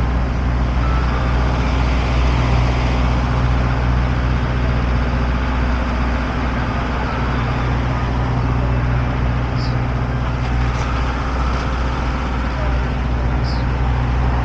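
Steady low hum of an engine running at a constant speed, with no rise or fall in pitch.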